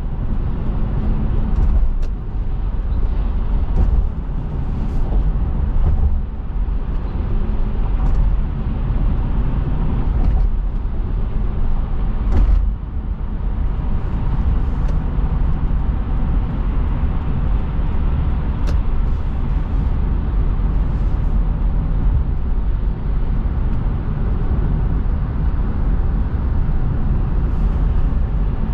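Car driving along a road: a continuous low rumble of tyre and engine noise, with a few faint ticks.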